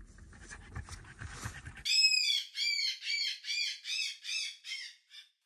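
Small songbird chirping: a run of about ten short, bright chirps, about three a second, starting about two seconds in after faint low background noise. It serves as a morning-wake-up sound effect.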